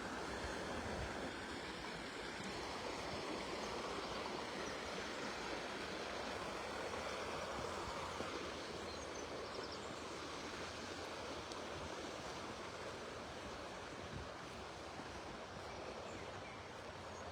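Shallow river running low over stones: a steady rushing of water.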